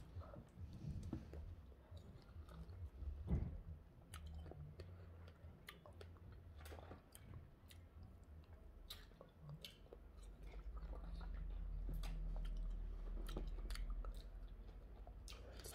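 A person biting into and chewing fresh strawberries close to the microphone, with many small mouth clicks and smacks. A low rumble swells from about ten seconds in.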